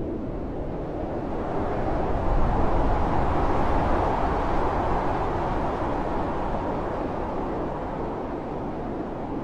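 Blizzard wind blowing steadily, with a gust that swells about two seconds in and eases off again by about six seconds.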